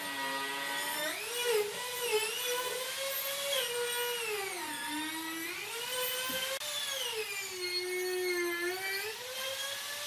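High-speed electric power tool running with a whine whose pitch sags and recovers several times, as its speed changes while it works the wood.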